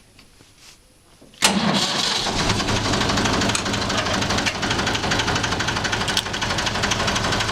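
Tractor engine starting about a second and a half in, catching at once and then running steadily at idle.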